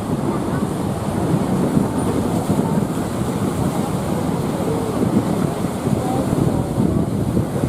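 Steady rush of heavy surf mixed with wind buffeting the microphone.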